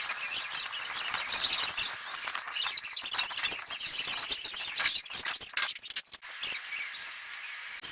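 Birds chirping, a dense high-pitched twittering that thins out about five seconds in.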